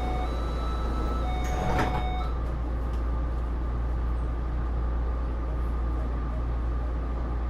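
Inside a Taipei Metro C301 subway car stopped at a platform: steady electronic door-closing warning tones, and the sliding doors shut with a knock about two seconds in. The tones stop, leaving the car's steady low hum and equipment noise.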